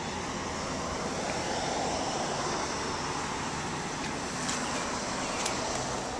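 Steady rumble of road traffic, swelling and easing over the first few seconds as a vehicle goes by.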